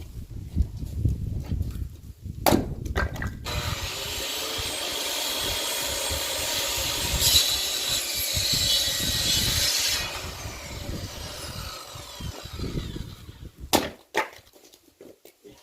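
Firewood being split: sharp wood strikes about two and a half seconds in and again near the end. In between, a steady noise lasts about six seconds and cuts off suddenly.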